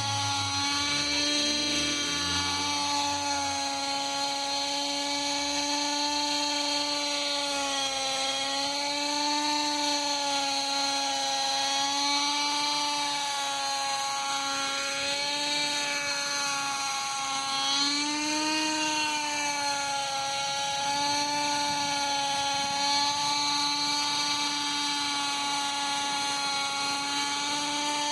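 Norvel .061 two-stroke glow engine of a Lite Machines 110 nitro RC helicopter running at high revs: a steady, high-pitched whine whose pitch drifts gently up and down.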